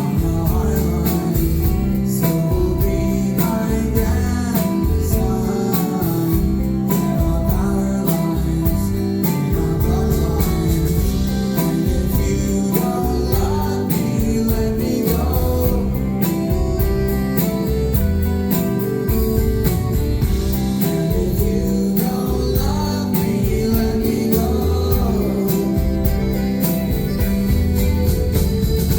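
Live band performing a folk-rock song: strummed guitar over a steady beat, with a lead voice singing.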